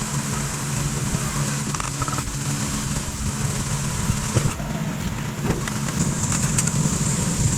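A motor or engine running steadily, with a few faint clicks.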